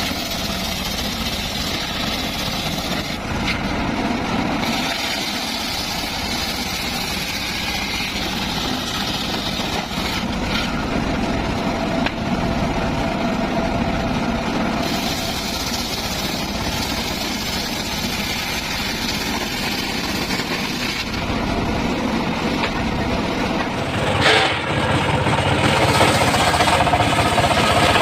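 Engine of a homemade circular-saw sawmill running steadily. About 24 s in there is a sharp knock, and after it the machine runs louder.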